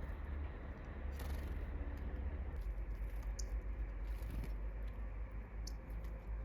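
Outdoor ambience dominated by a low, uneven rumble, with a few short taps and faint high chirps from small wild birds.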